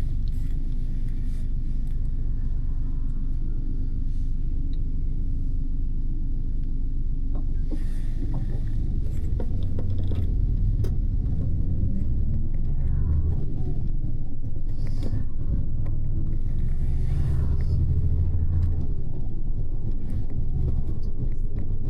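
Double-decker bus's engine and tyre noise heard from inside the upper deck: a steady low rumble with small rattles and clicks. The engine note shifts in pitch and grows a little louder about halfway through.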